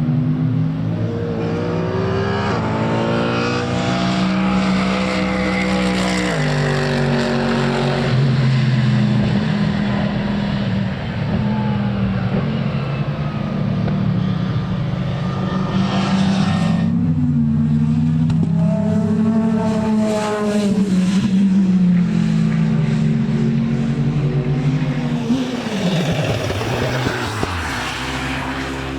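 Racing car engines running at speed on a circuit: the pitch climbs under acceleration and drops sharply at gear changes, as cars pass one after another with a falling pitch as each goes by.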